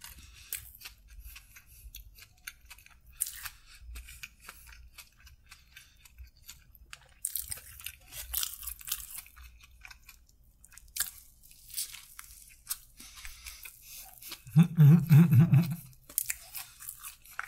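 Close-miked mouth chewing of toasted bread with chicken, with repeated crunchy bites and wet chewing. About a second and a half before the end there is a loud, low vocal sound from the eater lasting about a second.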